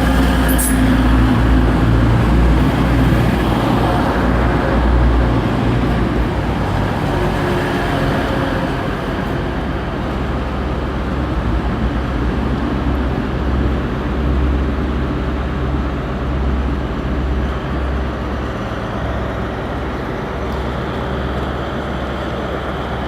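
Diesel train's engine running steadily, a deep even hum under a constant mechanical rumble, with a brief click less than a second in.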